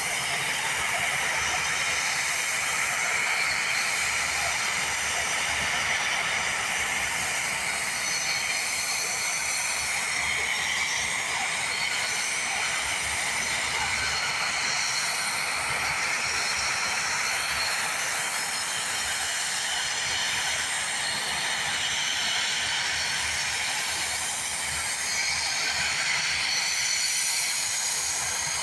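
Komatsu D85SS crawler bulldozer working, its diesel engine and tracks making a steady, loud mechanical noise with faint high whining tones over it.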